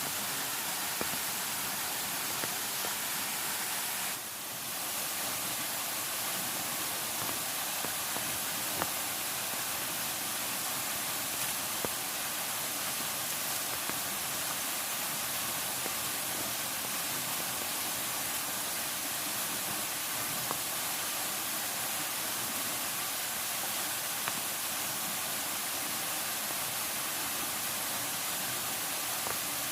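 Steady hiss of water, even and unbroken, with a brief dip in level about four seconds in and a few faint ticks.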